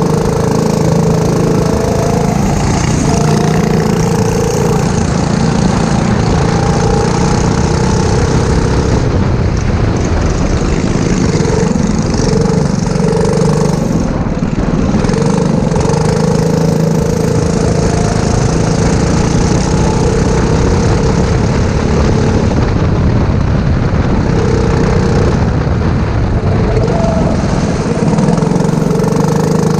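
Go-kart engine running under race load, its pitch rising and falling repeatedly as it accelerates and lifts off through the corners.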